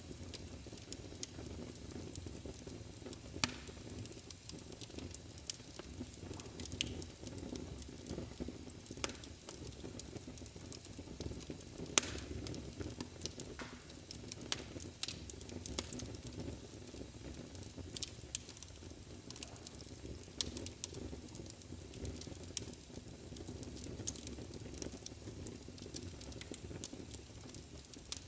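Wood fire burning in a fireplace: a steady low rumble of flames with frequent sharp crackles and pops at irregular intervals, the loudest pops about three and a half and twelve seconds in.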